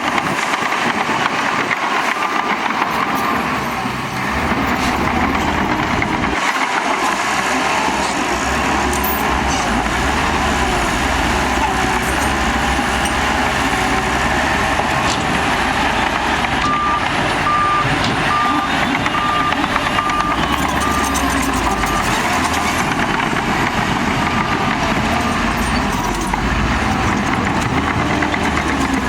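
Heavy earthmoving machinery, a bulldozer working alongside dump trucks, running with a steady diesel engine drone. Past the middle, a reversing alarm beeps at an even pace, about one and a half beeps a second, for roughly five seconds.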